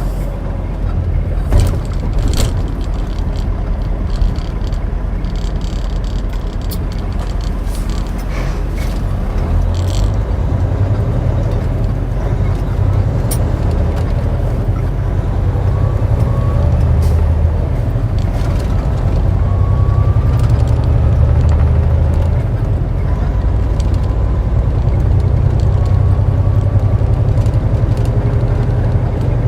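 Semi-truck diesel engine running, a steady low drone heard from inside the cab, with a few short clicks in the first few seconds.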